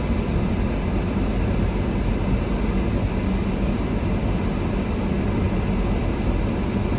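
A car being driven, its engine and tyres making a steady low rumble and road noise.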